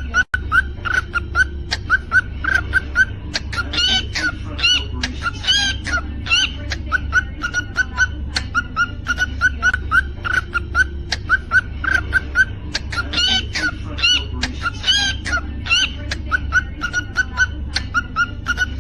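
Cockatiel chirping in a quick steady run, about three short chirps a second, broken by a few whistled notes that rise and fall in pitch around four to six seconds in and again around thirteen to fifteen seconds in.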